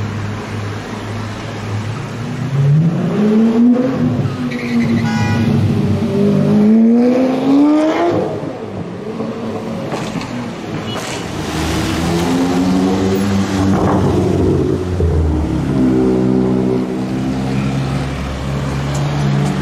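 Supercar engines accelerating through street traffic. An engine revs up in rising sweeps about three and seven seconds in, another climbs in pitch around twelve to fourteen seconds, and a deep, steadier engine note runs at low revs near the end.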